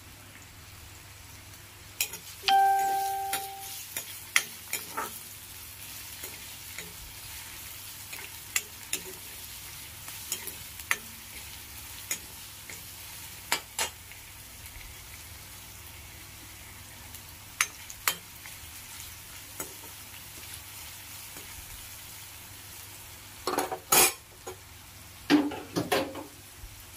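Sliced onions and ginger-garlic paste sizzling in hot oil in a karahi, with a steady hiss. A spatula stirs and scrapes against the pan, making sharp clicks here and there and a brief ringing tone about two and a half seconds in. It clatters more loudly twice near the end.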